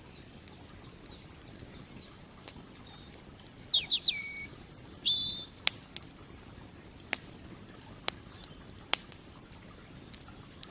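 Campfire crackling, with sharp pops scattered through, over a steady low rush of flowing creek water. A songbird chirps a quick run of short calls, some falling in pitch, about four to five seconds in.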